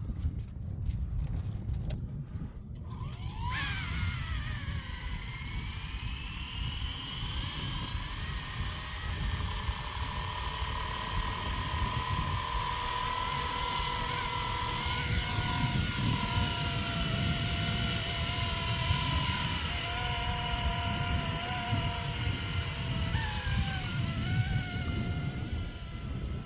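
Blade 230 S electric RC helicopter spooling up with a whine that rises in pitch a few seconds in, then running at a steady head speed. The whine wavers a little as it flies, over a rumble of wind on the microphone.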